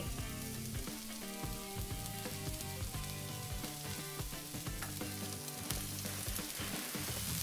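Sliced onions frying in oil on a hot Steelmade steel flat top griddle, a steady sizzle.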